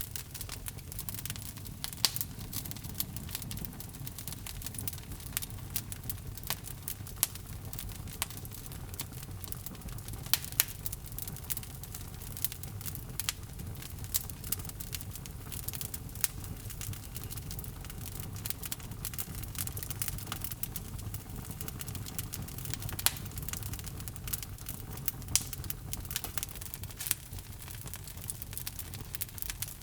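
Wood logs burning in a fireplace: a steady low rumble of flame with constant crackling and snapping, a few pops standing out louder.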